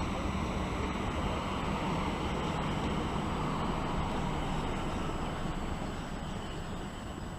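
Electric passenger train running through the station: a steady rushing rumble with a low hum, fading away over the last couple of seconds as it moves off.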